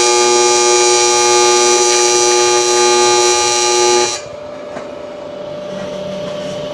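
Fronius AC TIG welding arc buzzing steadily at 165 amps with the AC frequency set at 120 Hz. It cuts off suddenly about four seconds in, leaving a fainter steady hum.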